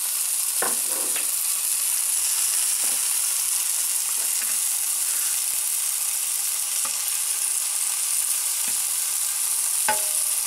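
Chicken breast and aubergine slices sizzling steadily in a ceramic grill pan, with a few faint clicks.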